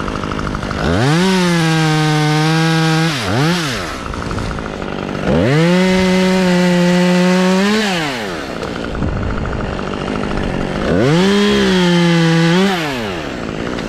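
Two-stroke chainsaw revving up to full throttle three times, each burst held steady for about two seconds before dropping back to idle, as it cuts into wood.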